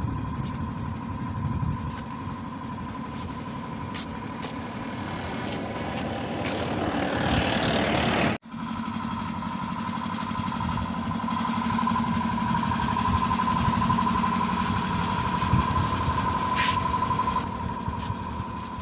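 A motor or engine running steadily with a high, even whine over a low rumble; the sound swells, breaks off abruptly about eight seconds in, then resumes.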